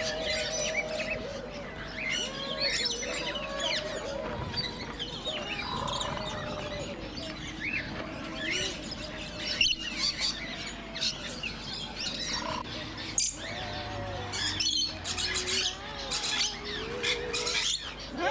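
A flock of small aviary birds chirping and calling over one another, with a recurring low, wavering call and a few sharp clicks.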